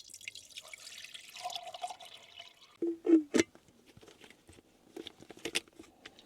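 Water pouring into a kettle for about two and a half seconds, its pitch rising as it fills, then a few hard clunks as it is handled and set down, with light clicks after.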